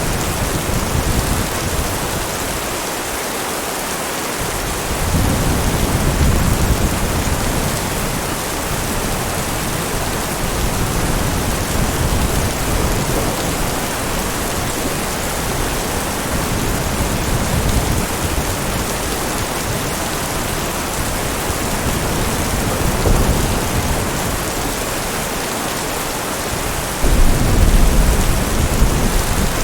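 Steady heavy rain with low rumbles of thunder: a roll about five seconds in, and a louder, sudden rumble near the end.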